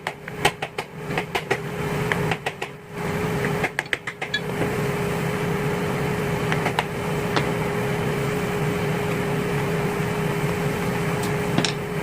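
Quick bursts of sharp metal clicks and taps, three clusters in the first four seconds or so, from tools working the bent ear of a rotary engine's steel oil pan, over a steady background hum with one constant tone.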